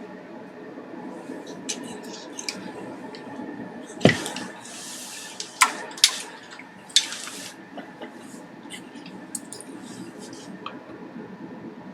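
Bench handling noises during electronics repair work: a series of sharp clicks and knocks, with two short hissing bursts about four and seven seconds in, over a steady low hum.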